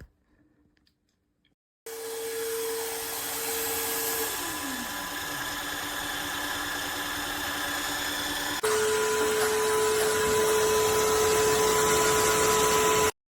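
Tineco cordless wet-dry vacuum mop running: a steady motor whine that starts abruptly about two seconds in, with one tone sliding down in pitch. About nine seconds in it jumps louder with a higher whine, then cuts off suddenly near the end.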